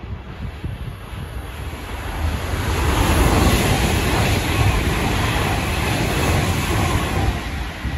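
Express passenger train passing close by at speed: a rush of wheel and air noise that builds about two seconds in, stays loud through the middle and eases near the end, with wind buffeting the microphone.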